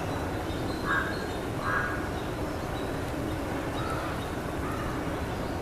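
Bird calls over steady outdoor background noise: two short, loud calls about a second in, then two fainter ones near the end.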